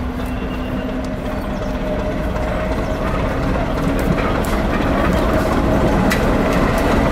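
Diesel-hauled heritage train running, a steady low engine drone and rumble that grows slightly louder, with a few faint clicks.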